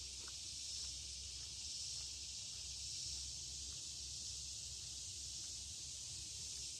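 Steady, high-pitched chorus of insects, a continuous shrill hiss that holds without break.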